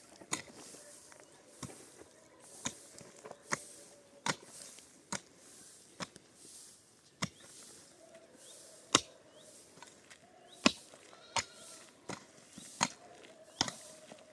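Repeated sharp strikes, roughly one a second and unevenly spaced, some much louder than others, like blows of a hand tool on wood.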